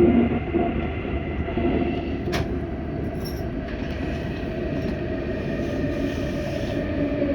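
Auckland Transport AM class electric multiple unit heard from inside the carriage while running: a steady rumble of wheels on rail under a constant hum, with one sharp click about two seconds in.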